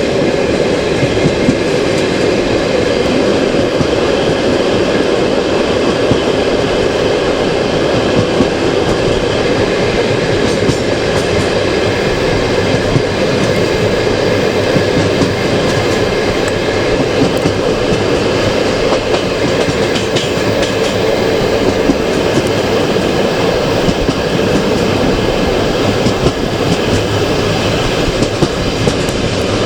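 Passenger train carriage running along the track, heard from the carriage window: a steady rumble of wheels on rail with a clickety-clack of rail joints.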